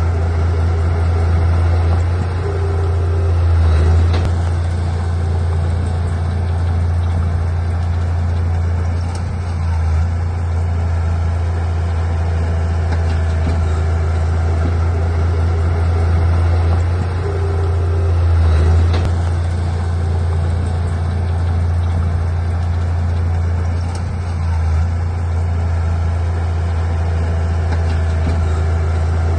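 Heavy diesel engine of earthmoving machinery running steadily with a deep drone, swelling briefly under load twice.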